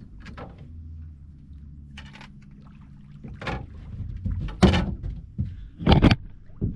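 A run of hollow knocks and thumps on the boat, starting about halfway through and coming irregularly, the loudest two near the end, over a faint steady low hum in the first half.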